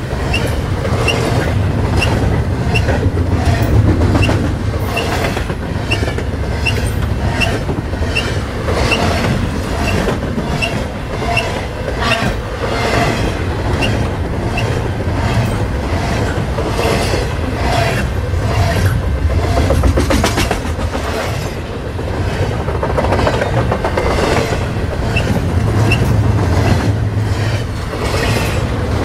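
Canadian National double-stack container freight train rolling past close by: a steady low rumble of the well cars with rhythmic clickety-clack of the wheels over the rail joints. Brief high wheel squeaks recur, mostly through the first half.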